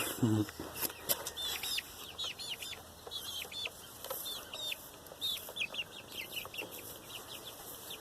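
Young chickens peeping: a steady run of short, high cheeps, several a second, rising and falling in loudness.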